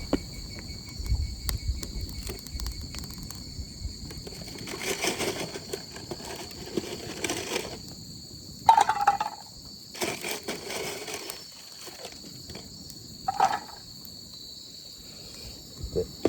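Insects droning steadily in high, even bands, with scattered short clatters and rustles of handling and two brief louder sounds about halfway through.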